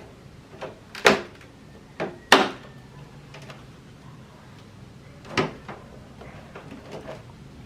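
Split air conditioner's cover panel being handled and fitted back into place: a few sharp knocks and clicks, the loudest about a second in, two seconds in and halfway through, with lighter ticks between.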